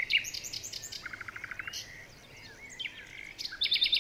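Several songbirds singing together: short whistled phrases and rapid trills of repeated notes, with one trill a little after a second in and a higher, louder trill near the end.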